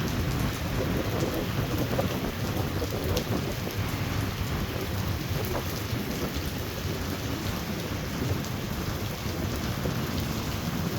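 Heavy thunderstorm rain pouring steadily, with a low wind rumble on the microphone.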